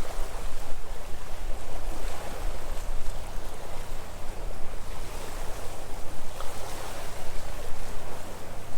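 Sea waves washing on the shore, a steady noisy wash with a low rumble underneath.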